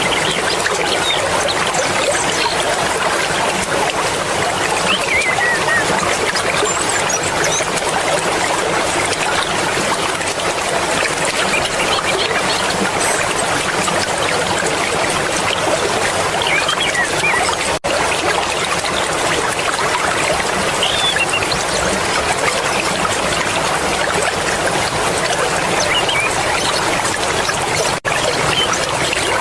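Mountain river water rushing and splashing in a steady, dense flow, with a few faint high chirps over it. The flow cuts out for an instant twice in the second half.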